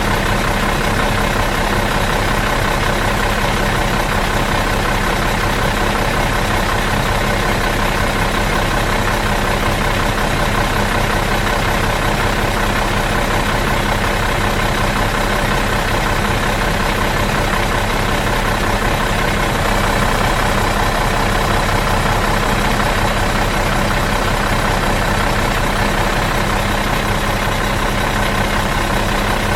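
Bus diesel engine idling in neutral, a steady, even running with a constant hum.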